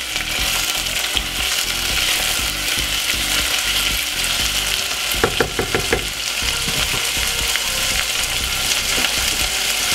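Chopped peppers, onion and carrot sizzling steadily in hot olive oil in a saucepan, stirred with a wooden spoon, with a short cluster of spoon strokes against the pan about five seconds in.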